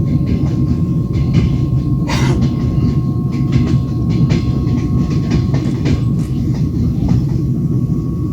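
Train wheels running on the rails, heard from inside a moving carriage: a steady heavy rumble with irregular sharp clacks and rattles, and a louder rasping burst about two seconds in.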